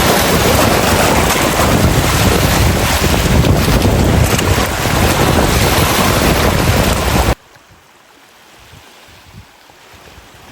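Heavy wind buffeting the microphone over open water, cutting off abruptly about seven seconds in to a much quieter wash of wind and waves.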